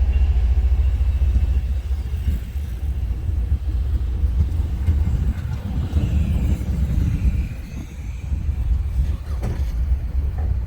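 Low, steady rumble of a passing train as it moves away, its higher-pitched rail noise fading in the first second or two.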